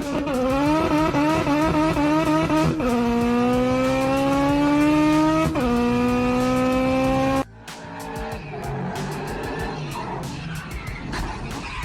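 A high-revving car engine accelerating hard through the gears. Its pitch climbs, drops sharply at two upshifts, and then cuts off abruptly about seven and a half seconds in. A quieter jumble of noise follows.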